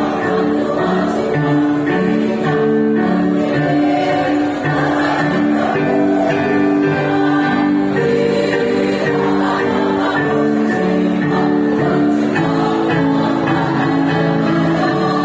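Choir singing in several parts, moving through held notes.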